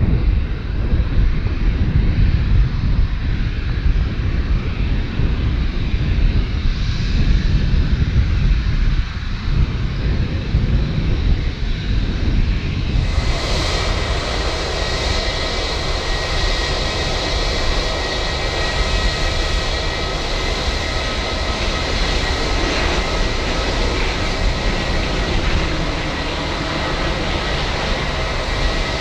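Airliner engines: a low rumble, then about halfway through a high whine with several steady tones comes in suddenly and holds.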